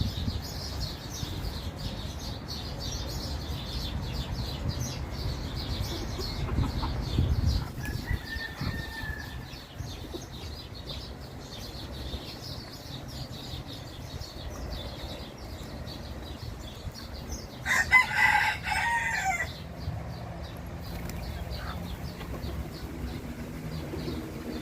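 A rooster crows once, loudly, about three quarters of the way through, over constant twittering of small birds and a low background rumble.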